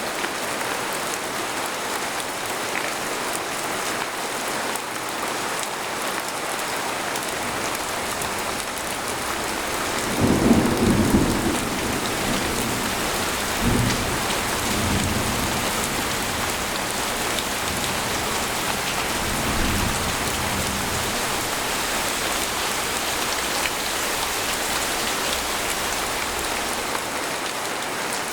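Steady rain pattering on a tent. About ten seconds in, a loud rumble of thunder lasts a couple of seconds, followed by fainter rolls of thunder a few seconds later.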